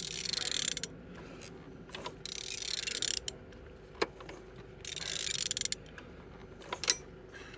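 A16XER 1.6-litre engine being turned over by hand, ratchet-like clicking in three strokes about two seconds apart, with a few sharp clicks between them. The engine turns freely.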